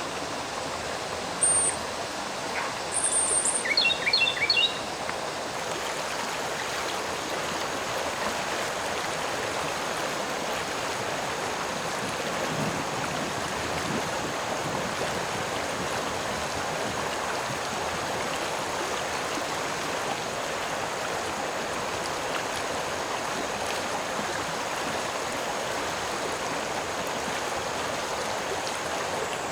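Steady rush of a flowing stream, with a few short, high bird chirps in the first five seconds.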